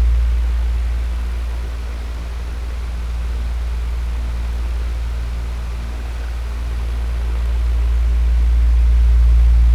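Electric fan running steadily: a low motor hum under an even rush of air, swelling and easing slowly in loudness.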